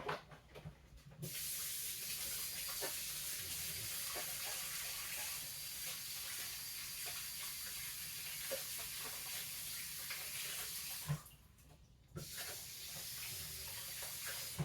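Kitchen tap running into a sink: it is turned on about a second in, shut off for about a second near the end, then turned on again, with a few small knocks of things handled in the sink.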